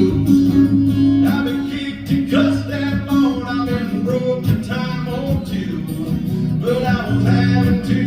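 Live country music: an instrumental passage led by acoustic guitar, with sustained chords and bass notes.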